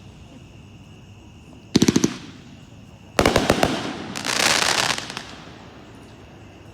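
Consumer firework cake, a 214-shot repeater, firing its last shots: a tight volley of rapid bangs about two seconds in, then another rapid volley a second later that runs into a dense noisy burst and fades out.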